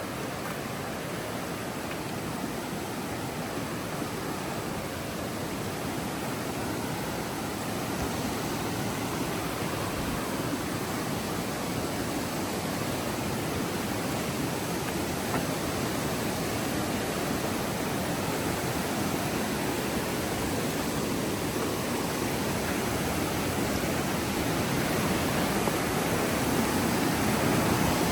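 Steady rushing of a river in flood, the Elk River swollen a couple of feet above its normal level, growing gradually louder.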